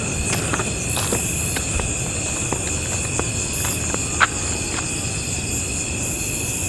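Night insect chorus, crickets among them, calling steadily as high trilling tones. Scattered soft clicks sound through it, with one sharper click about four seconds in.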